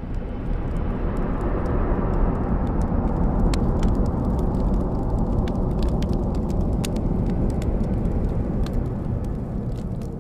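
Log fire burning in an open fireplace: a steady low rushing noise that swells over the first couple of seconds, with scattered sharp crackles and pops from the burning wood.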